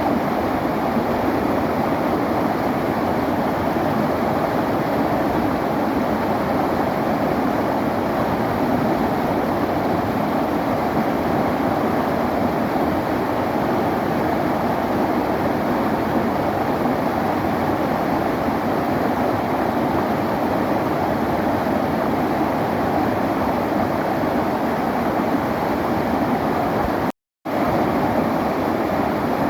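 Clear river flowing, a steady, even rush of water. It cuts out completely for a fraction of a second near the end, then resumes.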